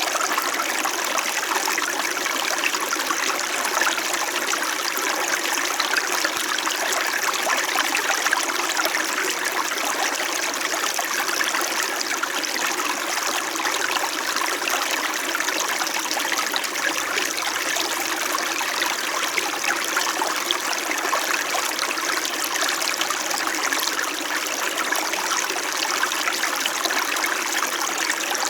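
Small stream babbling and trickling over stones in a steady, even flow.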